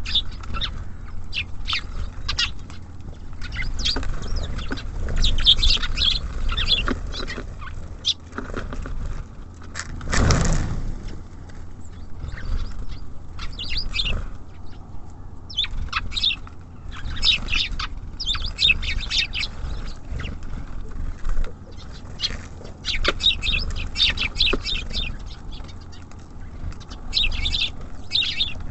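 Small birds at a feeder chirping and twittering in short, busy bursts, with wing flutters and small clicks among them. One loud thump comes about ten seconds in, over a low background rumble.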